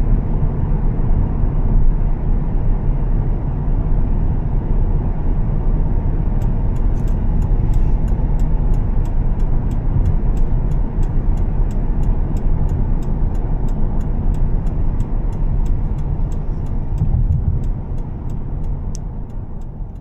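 Steady low rumble of a 2013 Volvo S60 T6 on the move, its engine and road noise heard from inside the car. About a third of the way in, a sharp, regular ticking of about two clicks a second starts, like a turn-signal indicator. The rumble grows quieter near the end.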